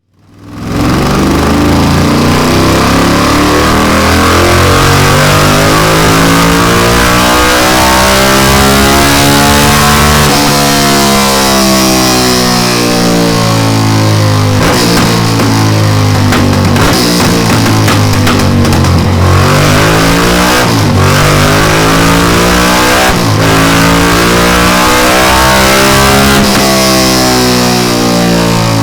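Honda XL1000V Varadero's 1000 cc V-twin running loud on a dyno through twin Delkevic DL10 carbon fibre silencers. Its pitch rises and falls in long sweeps through the revs, over and over.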